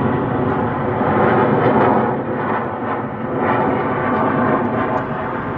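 Loud, continuous jet noise from Blue Angels F/A-18 fighter jets flying their display, dipping a little in the middle before swelling again.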